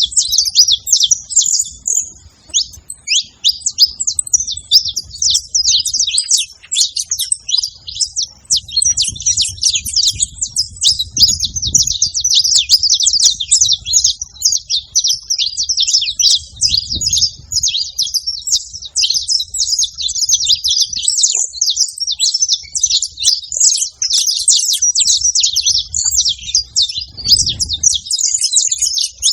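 Saffron finch singing: a fast, dense run of high chirps and trills, almost without pause, over a faint low rumble.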